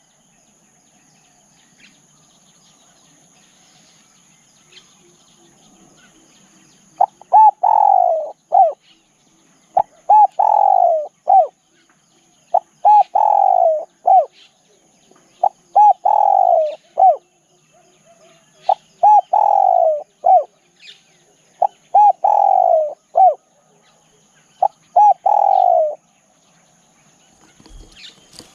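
Spotted dove cooing. After a quiet start comes a run of seven phrases about three seconds apart, each made of two short coos, a longer falling coo and a short final note. A faint steady high-pitched tone runs underneath.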